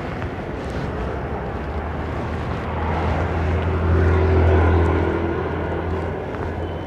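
Motorcycle on the move: a steady rush of wind and road noise, with a low engine drone that swells to its loudest about four seconds in and then fades away.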